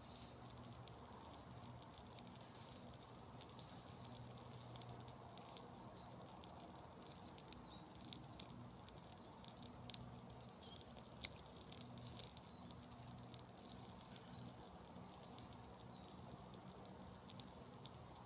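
Small campfire of damp wood crackling faintly, with scattered small clicks and a couple of sharper snaps. Short high chirps repeat several times in the middle.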